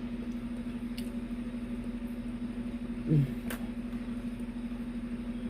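A steady low electrical hum in a small room, with a couple of faint clicks and a brief low murmur from the voice about three seconds in.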